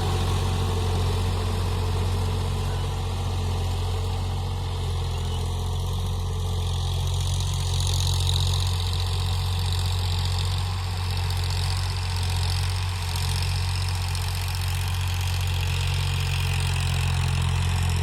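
Eicher 551 tractor's diesel engine running steadily at an even speed.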